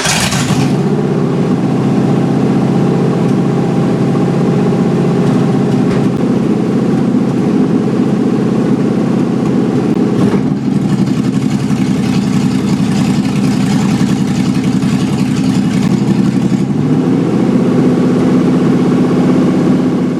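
Ford 5.0-litre V8 running loudly at a steady idle on open headers, with no exhaust system fitted and its ignition timing not yet set. The note holds steady, with a slight change in pitch about ten seconds in and again near the end.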